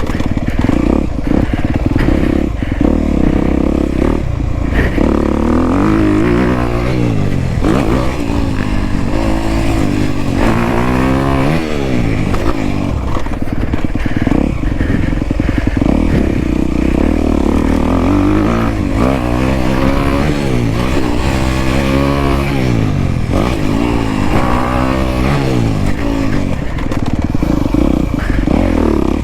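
Off-road motorcycle engine being ridden hard on a motocross track, revving up and backing off over and over, its pitch climbing and dropping every second or two.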